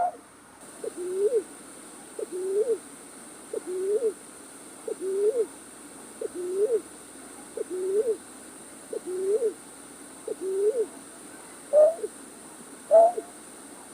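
Night-bird lure call played for trapping: a low hooting call, a short note followed by a note that rises then falls, repeated about every second and a half. A louder, higher call cuts in at the very start and twice near the end, over a faint steady high hiss.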